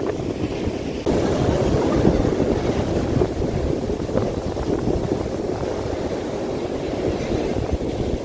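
Strong wind blasting across the microphone, with sea surf underneath. The rumble steps up suddenly about a second in and stays loud.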